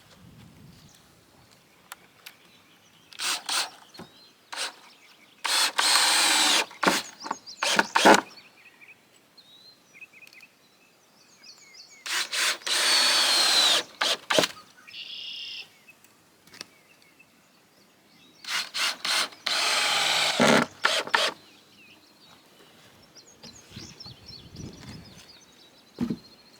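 A power tool run in four short bursts of one to two and a half seconds each, with knocks between them, while small birds chirp in the pauses.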